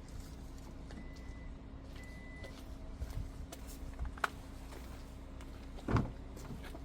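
A truck's engine hums steadily at idle. Two short, high beeps come about a second apart, then a sharp click, and a thump near the end is the loudest sound.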